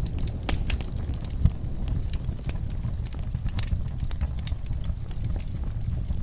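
Wood fire crackling in a fireplace, with irregular sharp pops and snaps over a steady low rumble of the flames, one louder pop about a second and a half in.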